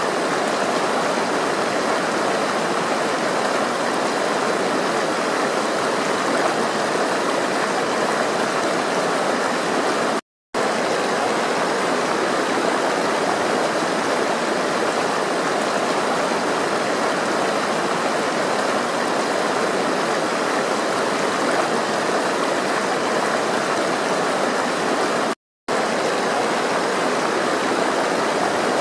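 Flowing water rushing steadily, broken twice by a sudden gap of silence lasting a fraction of a second, about ten seconds in and again near the end.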